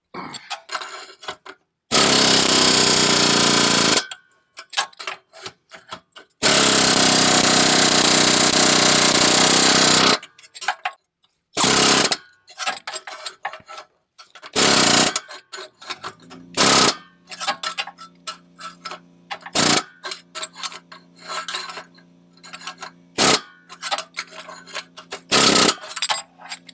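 Pneumatic air hammer rattling against a rusted exhaust clamp. It runs in two long bursts of about two and four seconds, then in several short bursts of under a second each.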